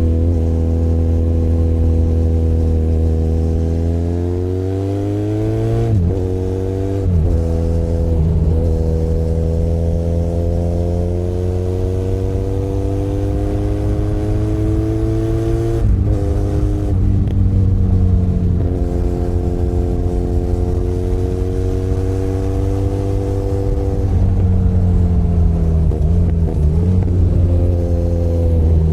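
Benelli Leoncino 500 Trail's parallel-twin engine under way, pulling up through the gears. Its pitch climbs and drops sharply at two upshifts, about six seconds in and about halfway, then holds steady before easing off near the end.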